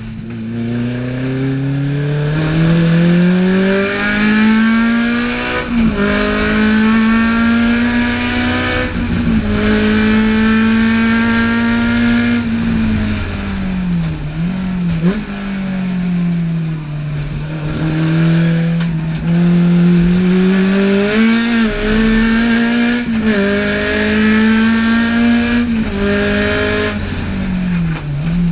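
Highly tuned Alfa Romeo twin-cam four-cylinder engine of a GT Junior revving hard under full throttle, its pitch climbing through each gear and dropping at every upshift. Near the middle the revs fall away under braking with quick throttle blips on the downshifts, then climb again through the gears. Heard from inside the cabin.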